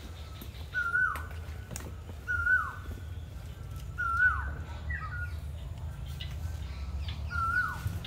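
A bird calling over and over: a short note that drops steeply in pitch, repeated about every second and a half, five times, over a steady low rumble.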